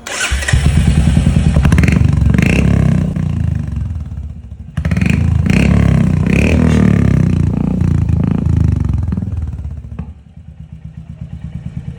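Royal Enfield Hunter 350's single-cylinder engine, breathing through an aftermarket stainless steel performance exhaust, is revved in several blips with a rapid, low exhaust beat. It breaks off abruptly just before halfway and picks up again, then near the end it drops to an evenly pulsing idle.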